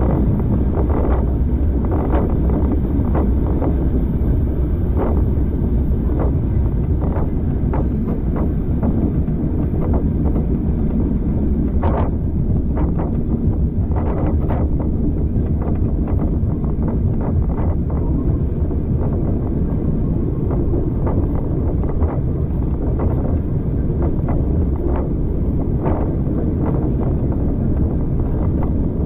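A railway carriage running along the track: a steady low rumble of wheels on rail, with short clacks every second or so from the wheels passing over rail joints.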